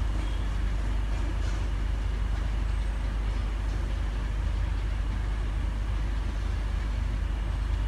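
Steady low rumble of an electric InterCity 225 train, Class 91 locomotive with Mark 4 coaches and a driving van trailer, pulling out of the station and away along the line.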